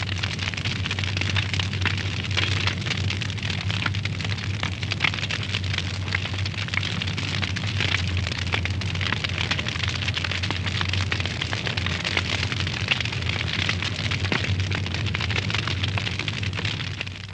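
Wood fire burning in a fireplace, with constant dense crackling and snapping and a steady low hum underneath. The sound falls away sharply right at the end.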